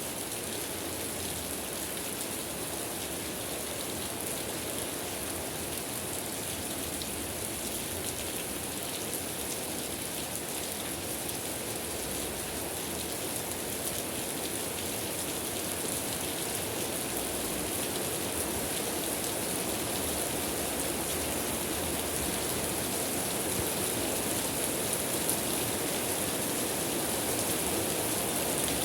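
Steady rain falling, a dense even hiss of many drops on surfaces, growing slightly heavier toward the end.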